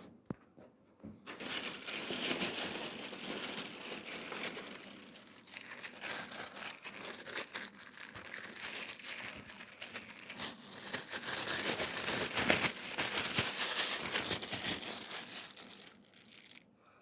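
Crinkling and rustling of packaging being handled and crumpled continuously, starting about a second in and stopping shortly before the end.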